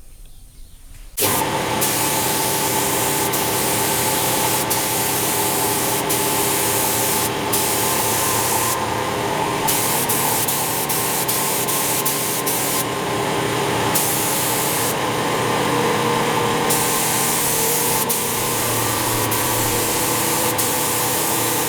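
Paint spray gun hissing as it sprays a coat of paint onto a car body, starting suddenly about a second in, with a steady machine hum underneath. The top of the hiss briefly drops out several times.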